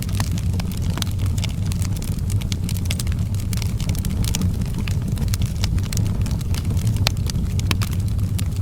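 Outdoor wood fire burning, with frequent sharp crackles and pops at irregular intervals over a steady low rumble.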